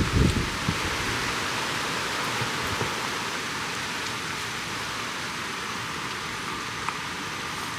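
Heavy rain falling steadily, an even hiss of downpour. A low rumble dies away just after the start.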